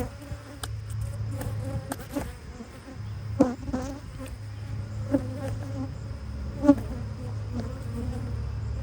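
Steady buzzing of a large, agitated honeybee colony swarming over its open hive, with several short knocks, the loudest about three and a half seconds in and near the end.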